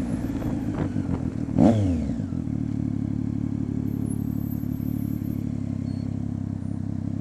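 Triumph Street Triple 675's inline three-cylinder engine through an unbaffled Coffman exhaust, idling, with one quick throttle blip about a second and a half in before it settles back to a steady idle.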